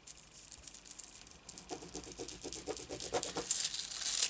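Thin metallic transfer foil crinkling as it is handled and rubbed down over glued fabric, with a run of quick rubbing strokes, about four a second, in the middle.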